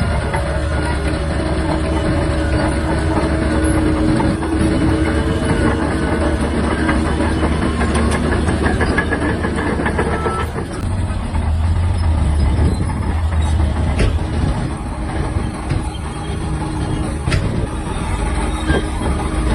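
Shantui DH17-C3 crawler bulldozer working: its diesel engine running steadily under load, steel tracks clanking, and a whine that fades out about ten seconds in.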